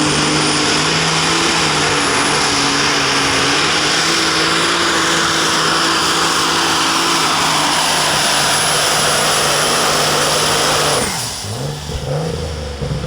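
Light super stock pulling tractor's turbocharged diesel engine running flat out under load during a pull, with a high steady turbo whistle over it. Engine and whistle cut off suddenly about eleven seconds in as the throttle is shut at the end of the run.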